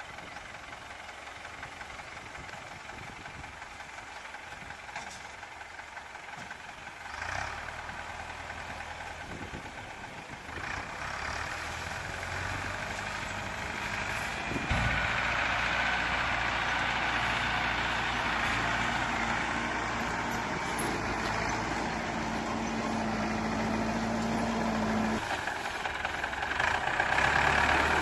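Tractor engine running with a corn harvester. It grows louder about a quarter of the way in and again about halfway through, with a steady hum that drops out shortly before the end.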